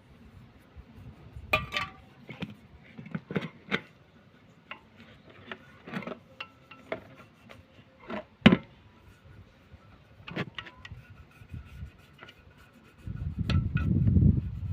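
Scattered light clicks, knocks and rubbing from hand work with tools and metal parts, with one sharper knock past the middle and a low rumble setting in near the end.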